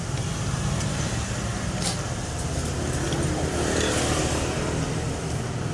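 A steady low engine hum, like a motor vehicle running nearby, that swells briefly around the middle as if a vehicle is passing.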